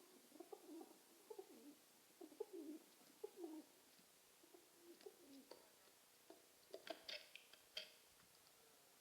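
Pigeon cooing in a run of low, wavering coos through the first few seconds, followed by a few short clicks near the end.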